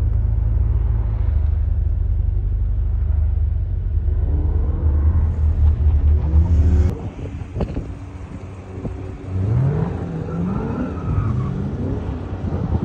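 Chevrolet Corvette C8 mid-engine V8s heard across the course, revving as the cars accelerate through the cones, over a heavy low rumble in the first half. After a sudden change about seven seconds in, engines rev up and down again and again as the cars drift figure-eights on a wet skidpad.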